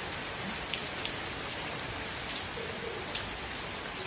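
Steady heavy rain falling, an even hiss with a few sharp ticks of single drops landing close by.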